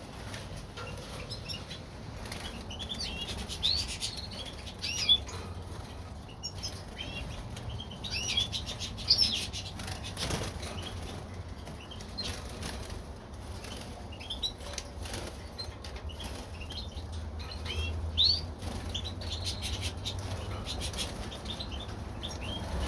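Small cage birds (European goldfinches, canaries and their hybrids) fluttering and flapping about in an aviary, with frequent short chirps and call notes. A steady low hum runs underneath.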